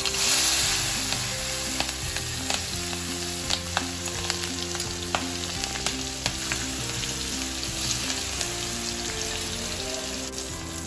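Chopped green chillies sizzling in hot tempering oil in a kadhai. The sizzle jumps up as they hit the oil, then settles into steady frying with scattered crackles and pops. Soft background music plays underneath.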